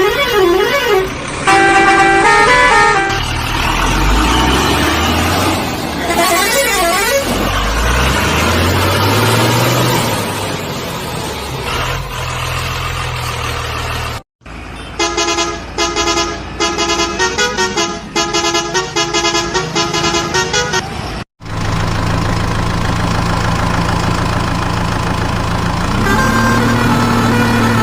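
A string of edited vehicle sound effects: warbling horn toots, an engine revving up in rising sweeps, then a run of rapid repeated horn honks that starts and stops abruptly. An engine drone follows and steps up in pitch near the end.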